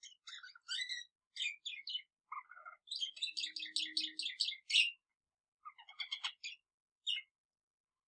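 Pet budgerigar and canary singing in short phrases of chirps and warbled notes, with a fast run of rapidly repeated notes in the middle.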